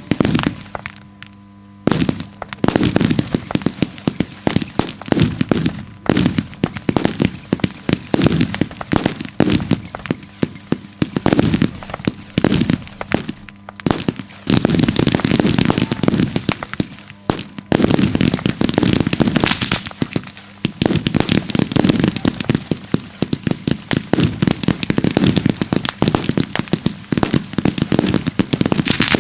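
Daytime fireworks firing in dense, rapid volleys of sharp bangs and crackling. There is a brief lull about a second in, and the barrage is at its thickest around the middle.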